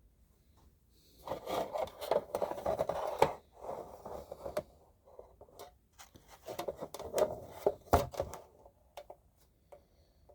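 Packaging of a boxed slot car being handled and unwrapped: rustling and scraping with a few sharp clicks, in two spells.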